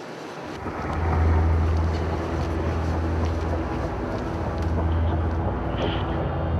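Sea King rescue helicopter running, a steady low engine-and-rotor drone that starts half a second in and swells about a second in.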